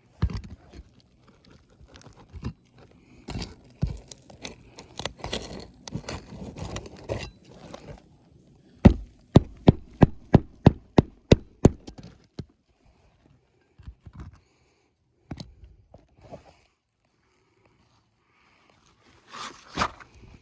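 Hand work on an asphalt shingle roof: irregular scraping and knocking of shingles and tools, then a quick run of about a dozen sharp strikes, about three a second, that stops abruptly, followed by a few scattered knocks.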